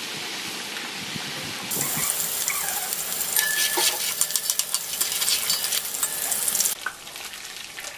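Ginger-garlic paste sizzling and crackling in hot oil in a metal pot, being fried until light brown. For about five seconds in the middle a slotted metal spoon stirs it, and the crackle grows louder with quick clinks and scrapes; near the end it settles back to a quieter sizzle.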